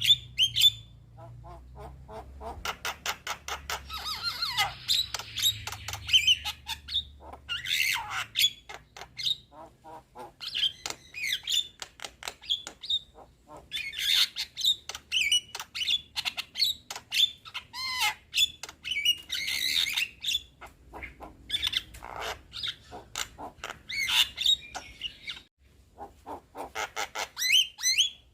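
Young Javan myna (jalak kebo) singing: long bursts of rapid clicking notes mixed with harsher calls and short whistled phrases, broken by brief pauses.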